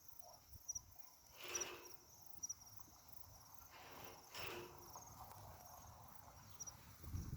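Faint cricket chirping: short high double chirps repeating at an even pace. Two soft, brief sounds come through about one and a half and four and a half seconds in.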